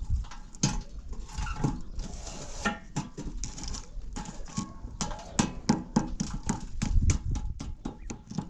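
Rapid, irregular knocks and clicks, several each second, with a low rumble building near the end.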